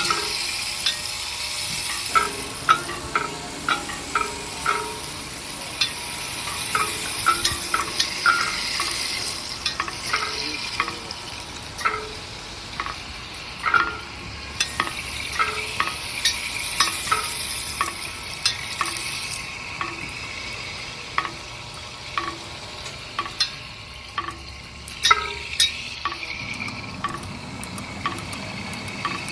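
Sizzling hiss, as of food frying, with frequent light clinks and taps of a utensil against a pan throughout.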